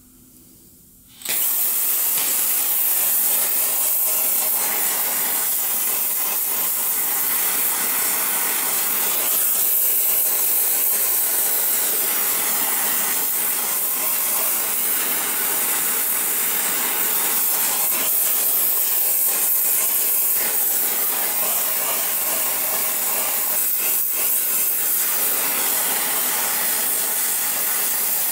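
Gas torch flame hissing steadily, lit suddenly about a second in, heating a rusted, seized exhaust manifold stud to free it.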